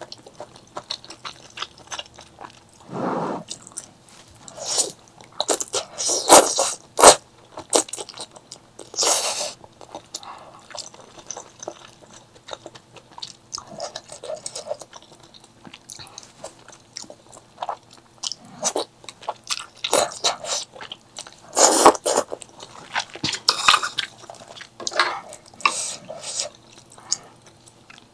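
A person eating close to the microphone: irregular crunchy bites and chewing, with several louder crunches.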